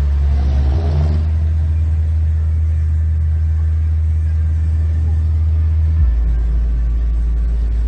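Subwoofer playing loud, steady deep bass notes, driven by a car amplifier. The pitch steps to a new note about a second in and again about six seconds in.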